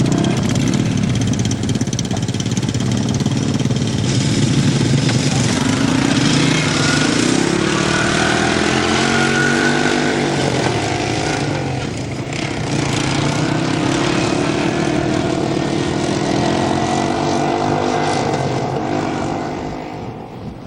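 All-terrain vehicle engines running under way, their pitch rising and falling as they ride, fading out near the end.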